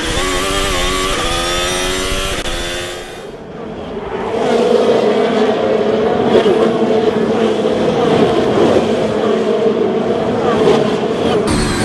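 Racing car engine accelerating and climbing in pitch in several quick steps, like upshifts, for about three seconds, then dipping; from about four seconds in, a louder, steadier engine sound.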